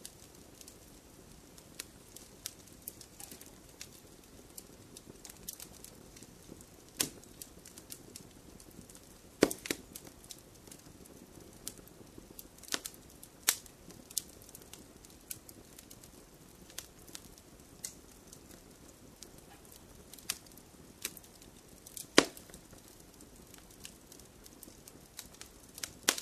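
Wood fire crackling in a fireplace: a soft, steady hiss of burning wood broken by irregular sharp snaps and pops. A few loud pops stand out, about nine, thirteen and twenty-two seconds in.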